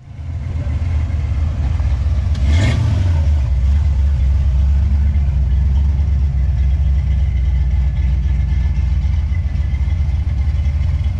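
Ford Maverick's engine running at low revs with a deep, steady exhaust note as the car is driven slowly, with a brief swell about two and a half seconds in.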